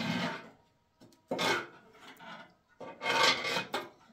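Metal scoop scraping ash out of a cast-iron wood stove, in three separate rasping strokes.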